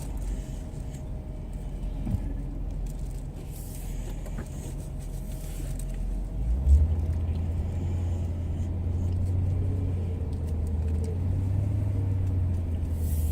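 Low, steady motor vehicle rumble, growing louder with a sudden step about halfway through.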